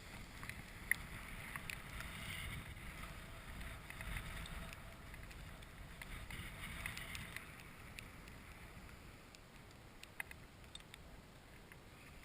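Wind buffeting a GoPro's microphone as a low, steady rumble, with scattered light ticks; it eases somewhat in the second half.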